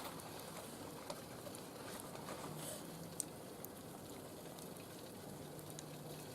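Wood fire burning in a barbecue grill, with a pot of water heating on it: a faint steady hiss with a few scattered small crackles. A faint low hum comes in twice.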